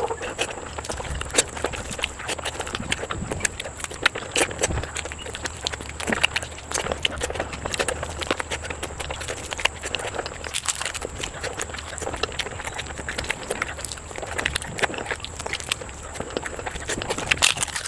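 Close-miked eating of mutton curry: chewing and wet mouth smacks, with irregular sharp clicks and crackles throughout.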